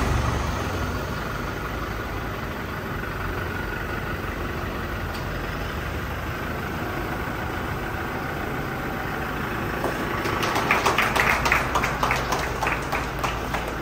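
A motor vehicle's engine running steadily with a low hum. About ten seconds in, a quick run of sharp clicks or taps comes over it for some three seconds.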